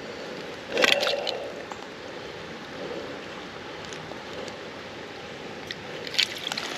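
Creek water running steadily, with a brief louder splash about a second in and a few short clicks and knocks near the end, as a hooked brown trout is handled in a landing net at the water's edge.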